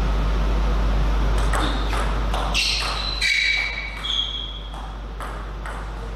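Table tennis rally: the celluloid ball clicks sharply back and forth off paddles and table, about ten quick hits starting about a second and a half in, a few followed by short high ringing tones. A steady low electrical hum sits underneath.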